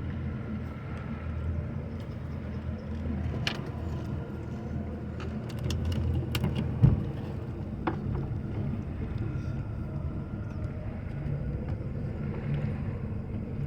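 A boat engine idling low and steady. Scattered clicks sound over it, with one sharp knock about seven seconds in.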